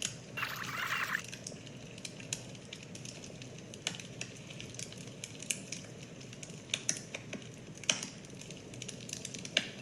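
Wood fire crackling, with irregular sharp pops over a low steady rustle and a brief hiss about half a second in.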